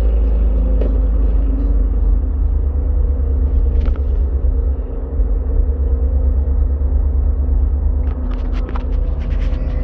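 Ford truck's engine and exhaust running at a steady low rumble while driving. A few light clicks come about four seconds in and again near the end.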